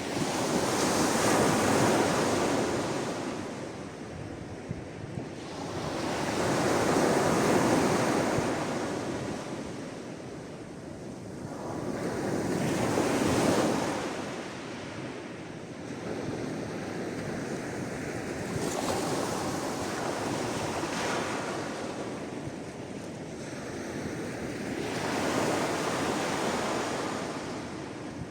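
Sea waves breaking and washing on the shore, the surf swelling and fading about every six seconds, five times.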